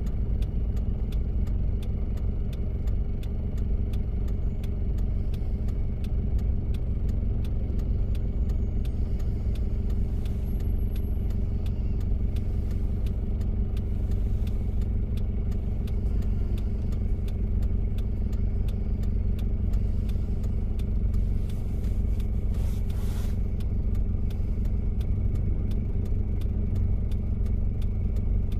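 1993 Toyota Prado's diesel engine running steadily while driving, with road noise and many light clicks and rattles. A brief rush of hiss comes about three-quarters of the way through.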